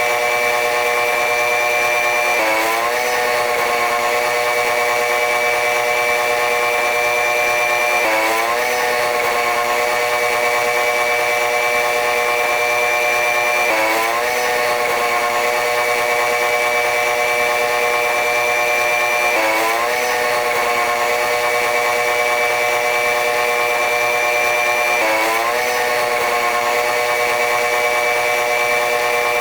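Running noise of a diesel-electric-hauled train sped up eightfold, heard as a steady, high, whining drone with several tones. About every five to six seconds the tones dip and glide back up.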